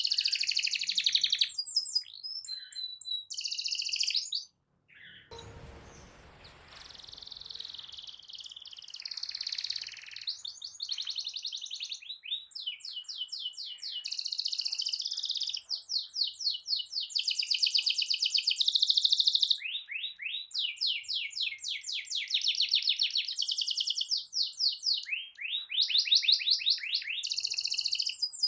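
Domestic canary singing long rolling trills of fast, repeated high notes. About four and a half seconds in the song cuts out briefly, then comes back over a few seconds of hiss.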